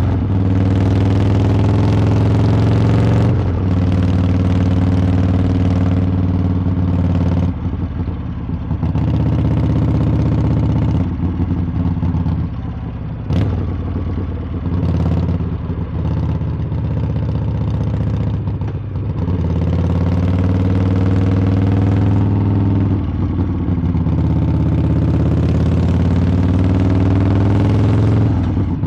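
Harley-Davidson V-twin motorcycle engine and exhaust running under way. The engine note dips and climbs again several times as the throttle is eased off and opened back up.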